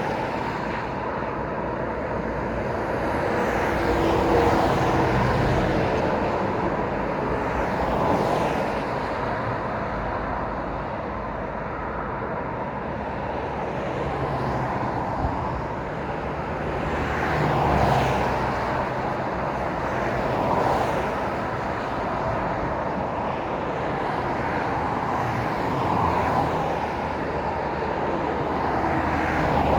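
Road traffic passing continuously, with one vehicle after another swelling up and fading away, about six clear passes over a steady tyre and engine rumble.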